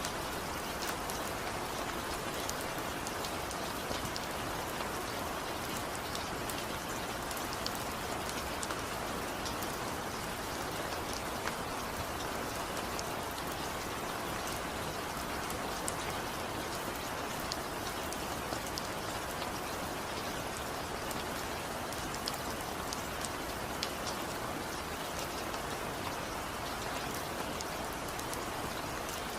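Steady rain falling on a surface: an even hiss with many small drop ticks scattered through it.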